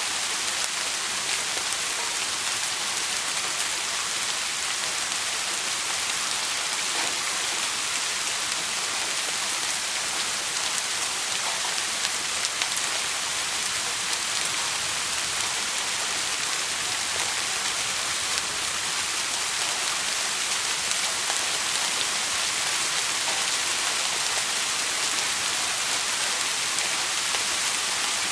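Steady rain falling: an even hiss with faint scattered drop ticks, no thunder.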